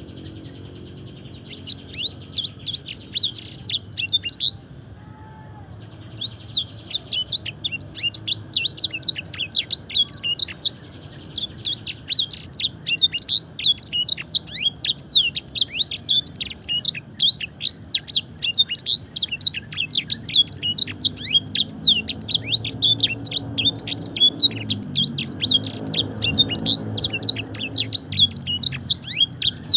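Fancy canary singing a long, fast song filled with blackthroat and edel sanger phrases: rapid, steeply falling notes and buzzy trills, with short breaks about five and eleven seconds in.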